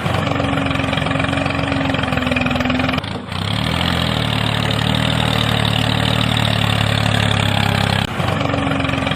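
A small engine or motor running steadily with a low, even hum, broken twice by abrupt cuts where its pitch shifts, about three seconds in and about eight seconds in.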